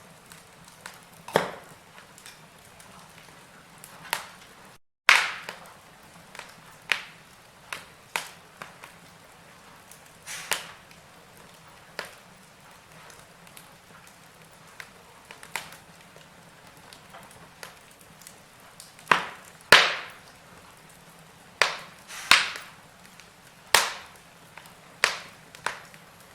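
Wood fire burning in a fireplace: irregular sharp crackles and pops over a faint steady hiss, the loudest pops about five, twenty and twenty-two seconds in. The sound cuts out completely for a moment about five seconds in.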